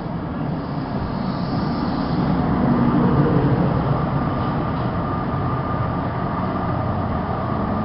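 Wrexham & Shropshire locomotive-hauled passenger train running through the station, a steady rail rumble with a diesel hum that swells to a peak about three seconds in and then holds.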